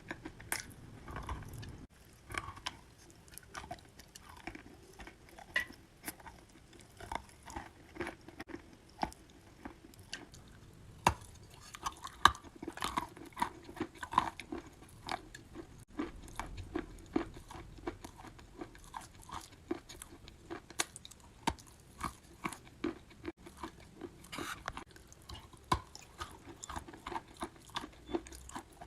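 A person chewing wet chalk: a steady run of short, soft crunches and clicks, with a couple of sharper, louder crunches a little before halfway through.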